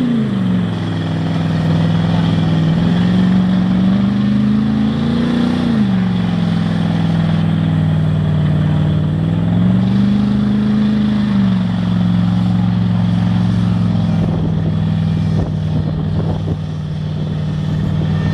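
Mud truck engine running hard in a mud bog run, its revs rising and falling several times, about five and ten seconds in. A scatter of knocks comes near the end.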